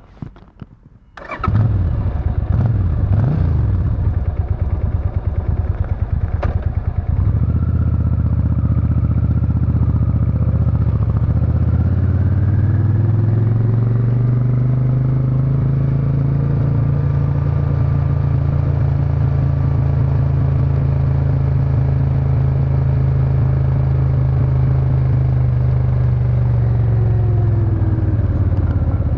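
Suzuki Intruder VS800's 805 cc V-twin exhaust comes in suddenly about a second in and is blipped a few times. The bike then pulls away, its pitch climbing as it accelerates, runs at a steady cruise, and eases off near the end.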